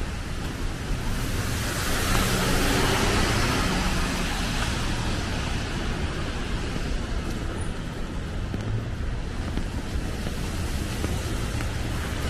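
Street traffic: a vehicle passes, its tyre hiss swelling from about a second in and fading after a few seconds, over a steady low rumble of traffic.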